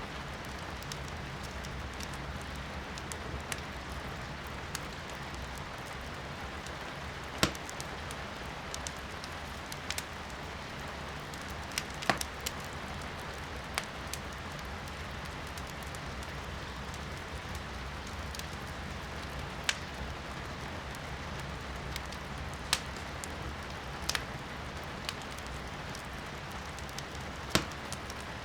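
Firewood burning in a fireplace, crackling and popping now and then with a few sharp snaps, over a steady hiss of rain heard from indoors.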